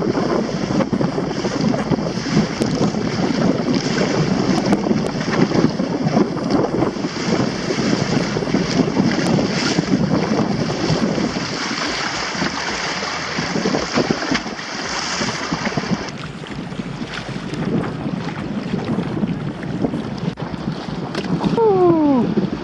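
Strong wind buffeting the microphone, with water rushing and splashing along the hull of a Hobie Adventure Island sailing kayak under way. The high hiss eases about two-thirds of the way through, and a brief falling squeal sounds near the end.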